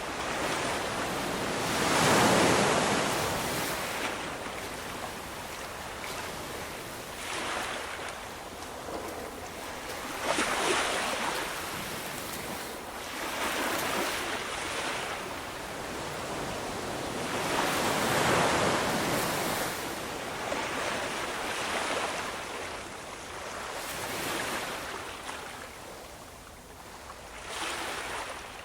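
Ocean waves breaking and washing on a shore, with a surge every few seconds that hisses away between them; the biggest breakers come about two, ten and eighteen seconds in.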